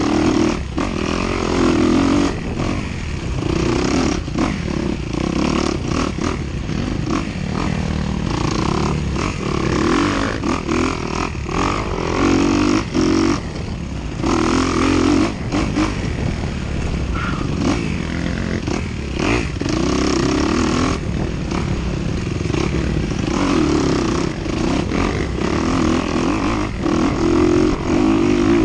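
Off-road dirt bike engine revving up and down over and over as the rider rolls on and off the throttle while racing a cross-country course.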